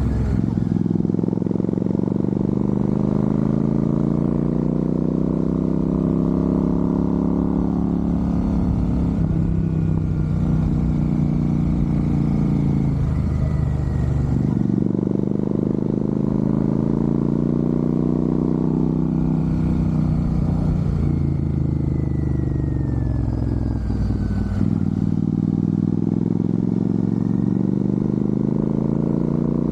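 Royal Enfield Super Meteor 650's parallel-twin engine running, its pitch rising and easing back in long swells, with sharp dips about fourteen and twenty-five seconds in.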